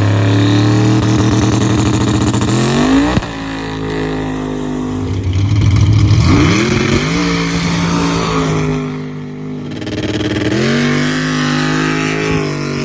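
A vehicle engine revving loudly. Its pitch climbs to a peak and cuts off abruptly about three seconds in, then rises again twice and holds steady in between.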